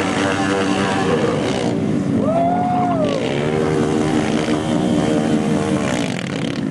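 Small mini-bike engines running, with one revving up and back down about two to three seconds in.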